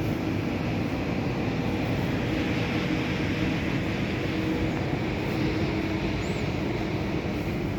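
Steady rumble of electric trains at a railway station, with a faint even hum running through it.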